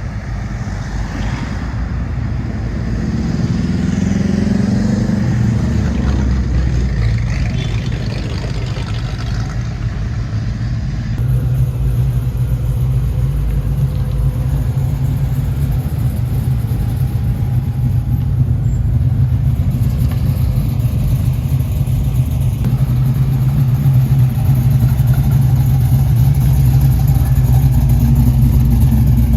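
Car engine running: the engine note rises in the first several seconds, then settles into a steady low idle.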